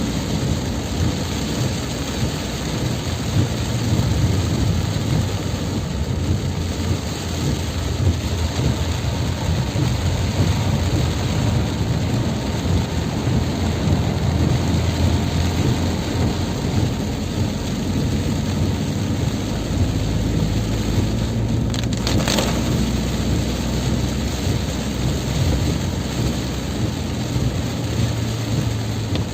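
Heavy rain pouring steadily over a constant low rumble, with one brief sharp sound about three-quarters of the way through.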